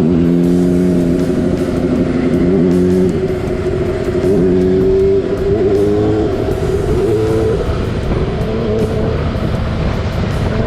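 Motorcycle engine running under way, its pitch climbing and then dropping several times as it shifts through the gears, with wind noise on the microphone.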